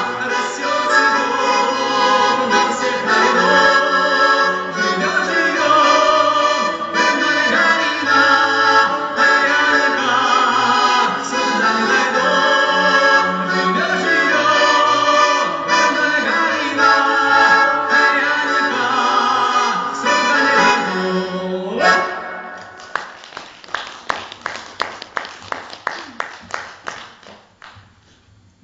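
Singing to accordion accompaniment; the song ends about three-quarters of the way through. After it comes a run of sharp clicks, several a second, that fades away.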